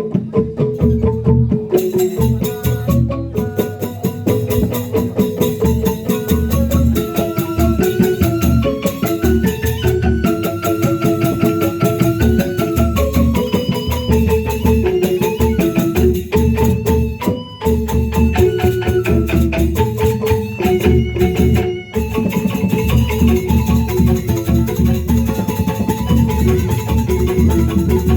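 Percussion ensemble music: mallet instruments play a stepping melody over a dense, fast, even beat, with two brief breaks in the second half.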